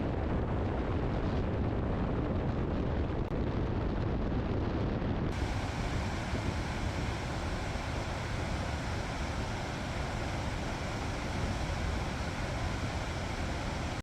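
Dettifoss waterfall: a steady, heavy rush of falling water. About five seconds in the sound shifts abruptly and more high hiss comes in.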